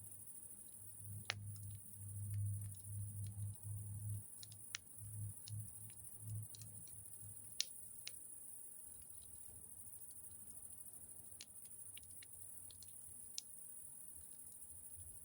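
Campfire crackling, with scattered sharp pops, the loudest nearly eight seconds in, over a steady high hiss. A low rumble comes and goes in the first six seconds.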